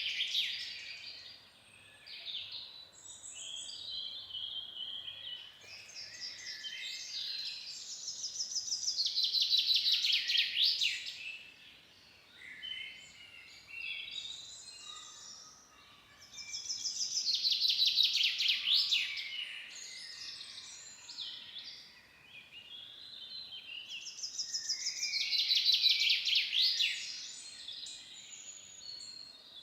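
Songbirds singing in a forest: one bird repeats a loud song about every eight seconds, a fast trill of a few seconds that swells in loudness and ends in a downward sweep, with softer calls of other birds in between.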